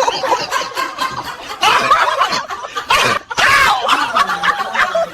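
Laughter in several short bursts, a cackling laugh at a joke.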